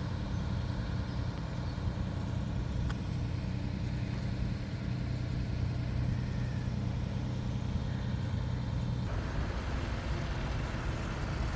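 Large diesel engine running steadily at idle with a low, even hum; about nine seconds in the hum breaks off and a rougher, broader engine noise takes over.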